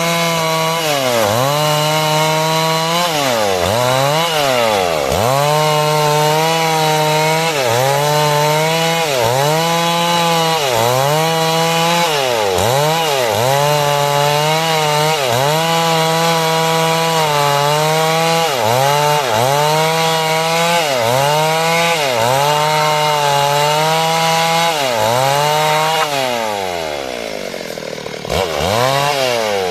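Two-stroke chainsaw cutting through wood at full throttle, its engine pitch dipping and recovering about once a second as the chain bites under load. Near the end the throttle is let off and the revs fall away, with one short rev.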